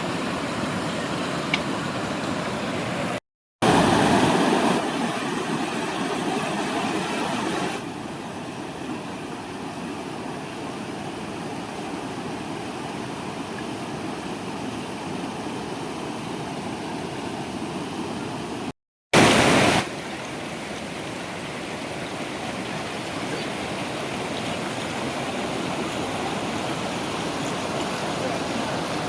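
Flood water rushing through the barrage's open gates as a steady, even wash of noise. It is broken twice by brief dropouts where shots are joined, and it is louder for a moment after each one.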